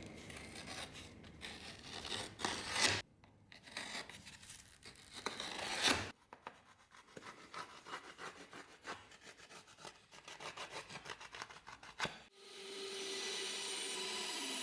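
Repeated rough back-and-forth strokes of a hand tool sawing or filing at wood, in a few separate runs, quicker and quieter after the middle. About twelve seconds in, a small power tool starts and runs with a steady whine.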